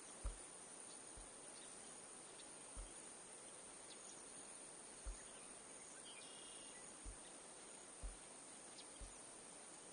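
Near silence: a faint, steady outdoor hiss broken by a few soft, low thumps at irregular intervals.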